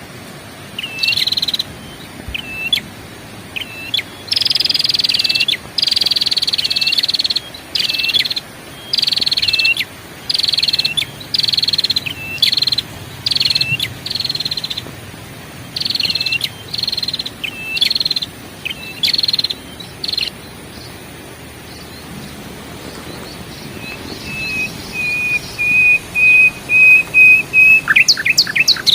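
Bird song: a run of short, clear, falling whistled notes, about one a second, that stops about twenty seconds in. After a short pause comes a steady, even-pitched trill that grows louder and ends in a few quick rising sweeps.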